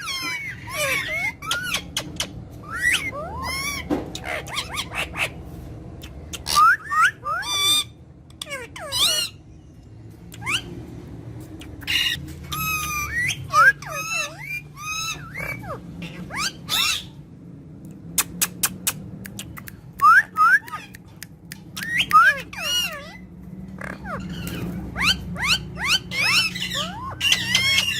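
Pet parrots squawking and whistling over and over, in short calls that slide up and down in pitch with brief gaps between them. A quick run of sharp clicks comes about two-thirds of the way through.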